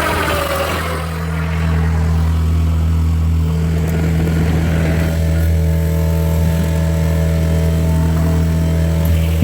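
John Deere 50P compact excavator's diesel engine running steadily, a constant low drone, with a falling whine fading out in the first second.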